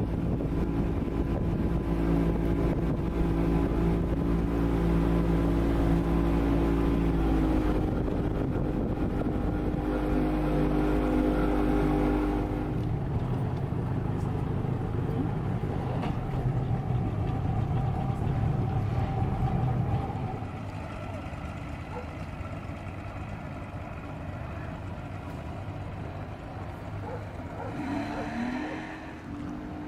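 Motor vehicle engines running nearby: a steady engine hum that shifts pitch a few times and drops away after about twenty seconds, with an engine revving up near the end.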